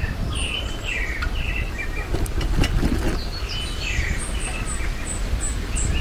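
Birds chirping in the park trees: short notes repeating in the first half, then a quick series of very high, thin notes in the second half, over a steady low rumble.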